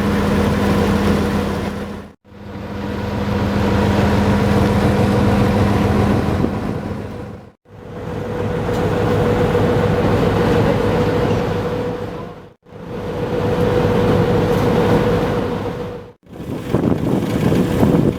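A vehicle's engine running with a steady hum over loud rumbling noise, heard in five short pieces that each fade in and out.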